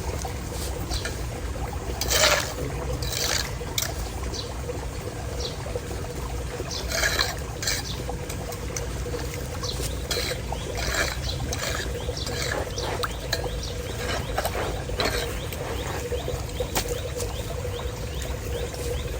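Floodwater pouring and trickling into a street drain, with irregular short splashes.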